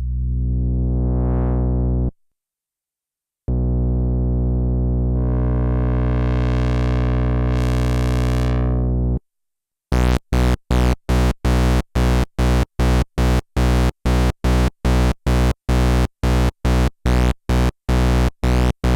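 Sequential analog synthesizer playing a low held note whose tone opens up as the filter sweeps, then stops. After a short gap a second held note grows steadily brighter. From about halfway through, the same note is played in fast staccato repeats, about three a second.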